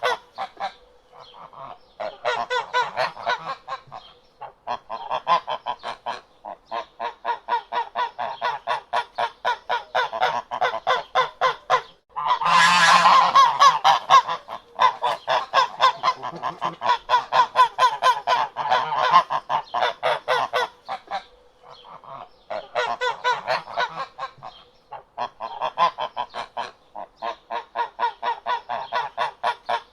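A flock of domestic fowl calling: runs of rapid short calls, several a second, broken by brief pauses, with one louder, longer stretch about halfway through.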